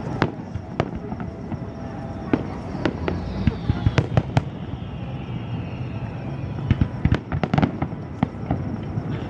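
Aerial fireworks shells bursting, a rapid irregular series of sharp bangs that comes thickest twice, about a third and three quarters of the way through.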